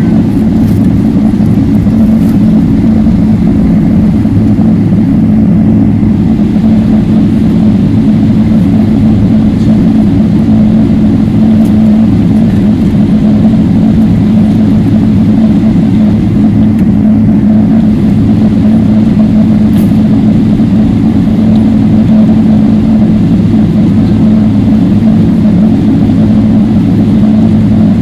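Boeing 777-300ER cabin noise: a loud, steady, low drone of the engines and airflow, with a constant low hum and no changes in pitch.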